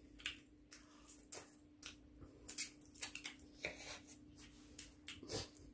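Faint, scattered clicks and smacks of two people chewing fried chicken drumsticks, over a faint steady hum.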